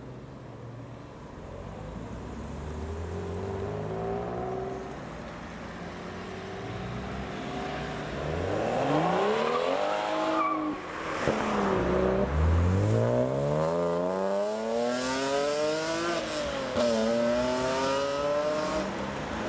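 BMW car engine revving hard as the car pulls away. Its pitch climbs, drops back at gear changes several times, and climbs again, growing louder through the second half.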